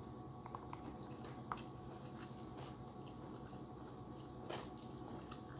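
Quiet eating sounds: a few scattered soft clicks and smacks of someone chewing rice and chicken eaten by hand, over a steady low hum.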